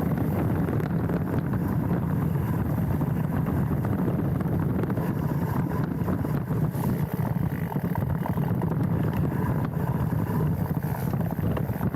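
Wind rushing over a handlebar-mounted action camera's microphone, together with the steady rumble of a mountain bike's tyres rolling down a dirt trail, with small scattered knocks and rattles from the bike.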